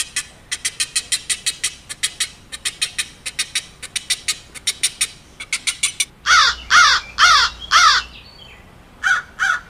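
A crow cawing: four loud harsh caws in a row about six seconds in, then a quicker run of shorter calls near the end. Before the caws, a rapid series of sharp high ticks, several a second, runs for about five seconds.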